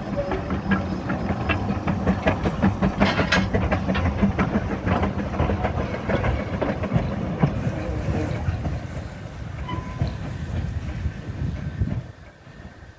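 Ffestiniog Railway narrow-gauge train running, its wheels clattering over the rail joints above a steady rumble. The clatter is densest early and thins out, and the sound drops off sharply about twelve seconds in.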